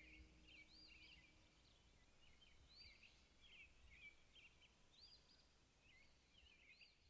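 Faint birdsong: a small songbird's short, high chirps in quick phrases, repeated every second or two.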